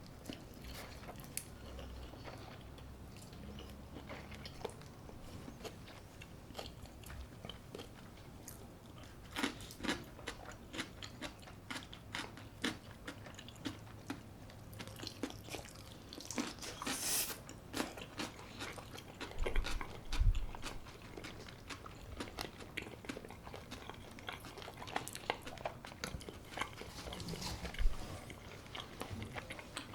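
Close-miked eating: crunchy bites and chewing, with scattered crackles that grow denser about a third of the way in, a louder crunch roughly halfway through and a few soft thumps later on.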